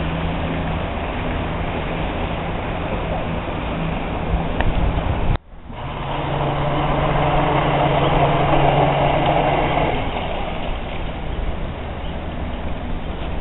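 A yacht's engine running steadily under a noisy rush of wind or water. It cuts off abruptly about five seconds in, then comes back louder for a few seconds before settling.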